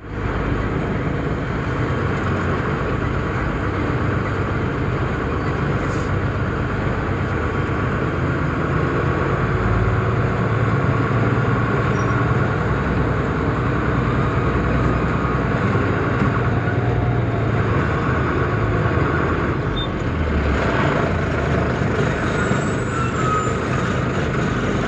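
A heavy diesel truck running steadily, its engine hum mixed with road noise.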